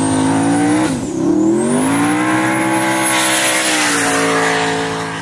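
Turbocharged LS-swapped Fox-body Mustang drag car's V8 held at high revs during a burnout. The revs dip about a second in, climb back and hold steady, with a thin high whine above the engine.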